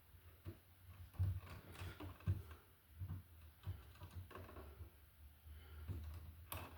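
Irregular small clicks and taps of insulated electrical wires being handled and pulled in a receptacle box to even up their stripped ends, over a faint steady low hum.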